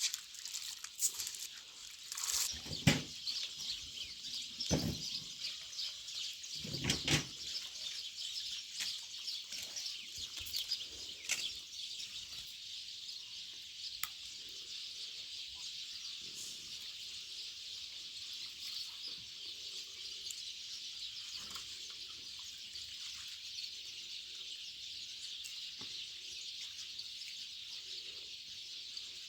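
Outdoor natural ambience: steady high-pitched chirping all through, with a few loud knocks or thumps in the first seven seconds.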